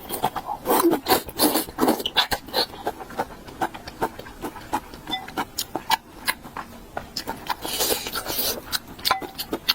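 Close-miked eating sounds: a person chewing and biting food, with many quick, irregular crunches and mouth clicks.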